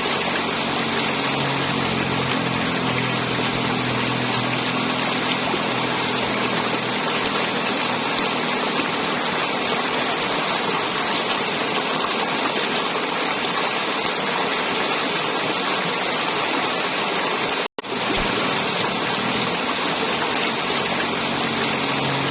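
River water flowing and gurgling in a steady rush, with a faint low hum under it at the start and near the end. The sound cuts out for an instant about three-quarters of the way through.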